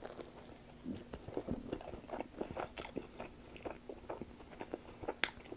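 Close-up mouth sounds of biting and chewing a slice of Pizza Hut cheese pizza: a steady run of small wet clicks and crackles, with a sharper smack about five seconds in.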